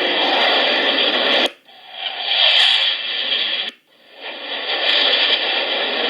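Loud, even hiss like radio static, with no pitch, coming in three swells that each cut off suddenly, about a second and a half in and again near four seconds in.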